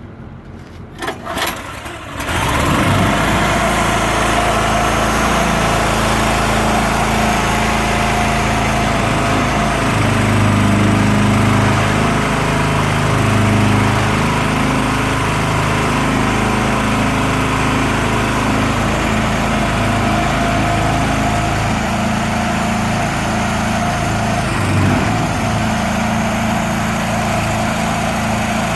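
Small engine on a seed tender cranked and catching about two seconds in, then running steadily.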